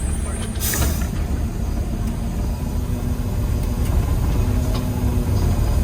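Garbage truck heard from inside the cab: the engine runs with a steady low rumble and a steady hum, and a short hiss of released air comes about a second in.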